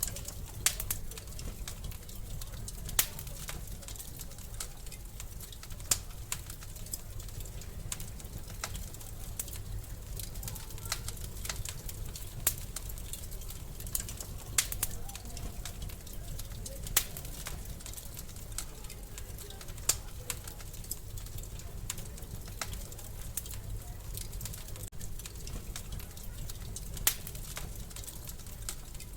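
Wood fire crackling in a fireplace: irregular sharp pops and snaps every second or two over a steady low rumble of burning.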